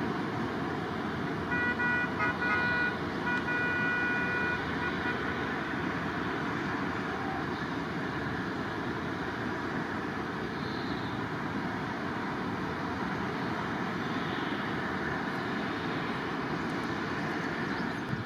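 Steady jet aircraft engine noise at the airport, with a horn sounding about a second and a half in: a few short toots, then a longer blast, over about three seconds.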